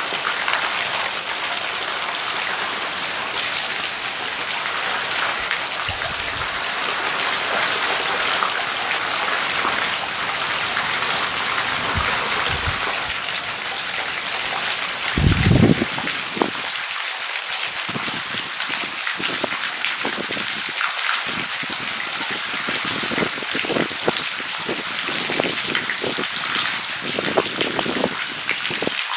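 Heavy rain from a thunderstorm falling steadily, a continuous hiss of drops on surfaces, with a few short low thumps, the loudest about halfway through.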